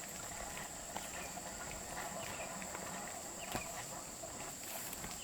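Quiet farmyard background with faint scattered animal calls and small clicks over a steady thin high-pitched tone.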